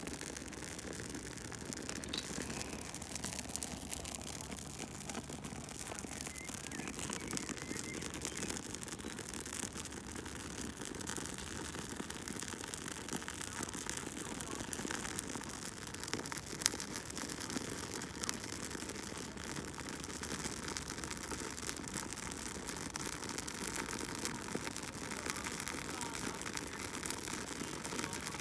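Campfire burning with a steady hiss and many small crackles and pops, one louder pop about two-thirds of the way through.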